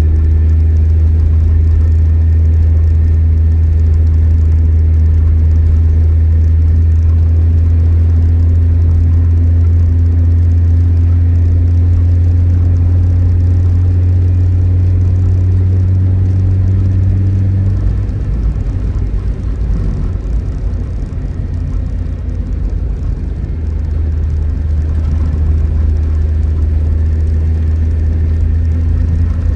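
Tofaş Doğan SLX four-cylinder engine running with a steady low drone. About two-thirds of the way through, the drone breaks into a rougher, uneven rumble for several seconds, then steadies again.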